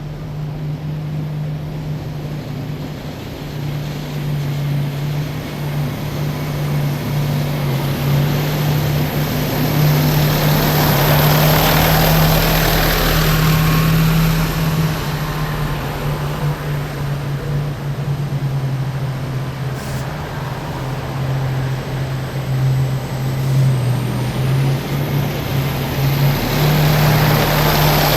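Column of heavy military vehicles driving past with a steady low engine hum; one passes loudest around the middle and another comes up near the end.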